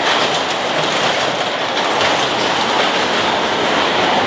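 Toyota Cressida's turbocharged 1JZ straight-six held at high revs through its newly built exhaust: loud and steady.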